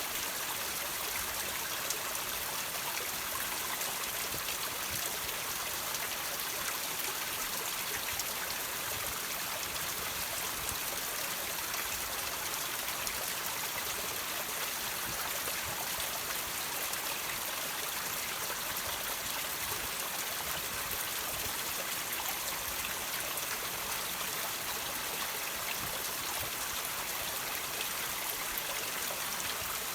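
Water trickling and dripping from rocks: a steady hiss of running water, with small drips scattered through it.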